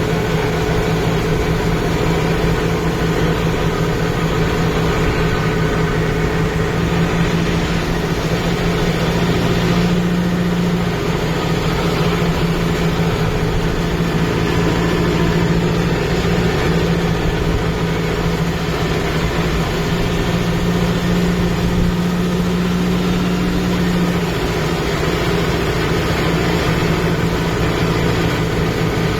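Kubota MU5502 tractor's four-cylinder diesel engine running steadily at an even speed, with no change in pitch.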